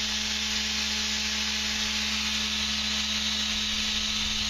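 A machine running with a steady, loud hiss over a constant low hum, unchanged throughout.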